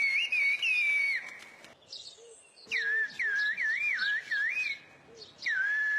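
Whistled Turkish: a person whistling speech-like phrases, the pitch sliding and wavering up and down, in three phrases with short pauses between.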